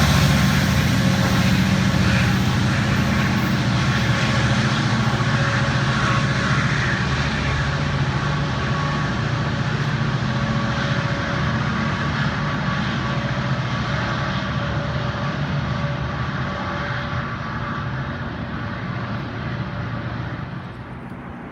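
Diesel-hauled passenger train running past, its locomotive engine's steady hum and a couple of steady tones slowly fading as it moves away.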